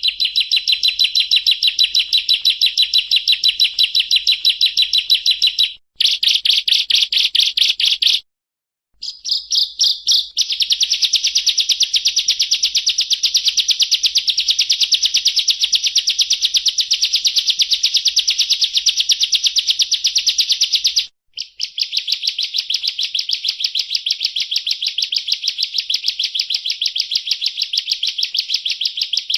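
Bar-winged prinia (ciblek) singing its rapid 'ngebren' trill: long runs of very fast, evenly repeated high notes, broken by three brief pauses, about six, eight and twenty-one seconds in.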